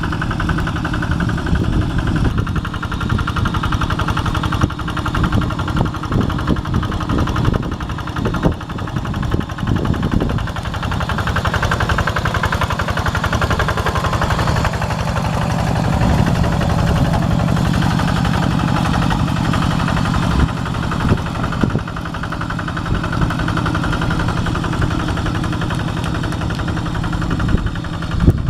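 Kubota RD85 two-wheel tractor's single-cylinder diesel engine running with a rapid, even chug, a little louder for a few seconds in the middle.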